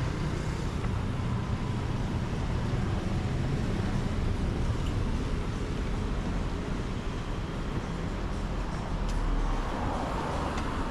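Steady low rumble of vehicle noise, with no distinct events standing out.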